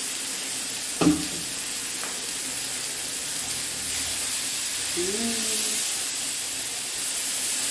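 Chopped sausage, bacon, onion and banana sizzling steadily as they fry in a pan on a gas hob, stirred with a spatula. A single sharp knock about a second in.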